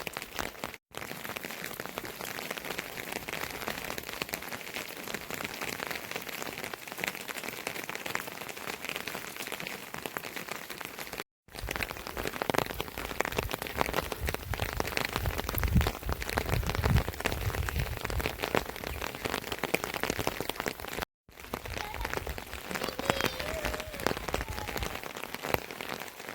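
Steady rain falling on surfaces, a dense even hiss of drops, with a low rumble for a few seconds midway. The sound cuts out briefly three times.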